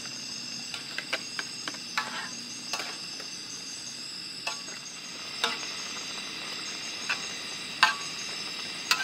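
Food sizzling in a frying pan while a spatula stirs it, giving a dozen or so sharp, irregular clicks and scrapes against the pan.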